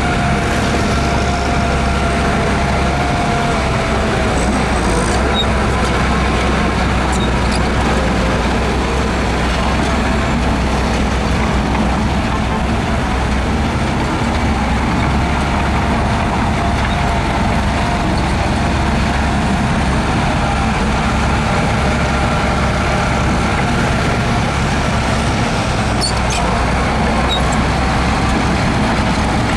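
Heavy diesel engine of earthmoving equipment running steadily, with a few faint clicks and clanks partway through and near the end.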